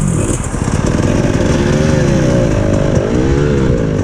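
Dirt bike engine revving under throttle, its pitch rising and falling, with a brief dip about three seconds in before it climbs again.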